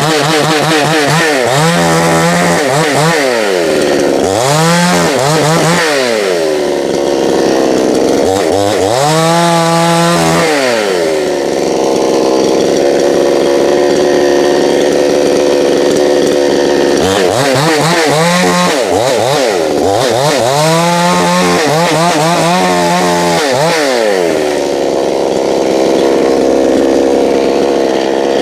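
Two-stroke chainsaw running at high revs and cutting through a fallen apple limb. Its pitch sags and climbs back several times as the chain bites into the wood and comes free, with steady stretches between cuts.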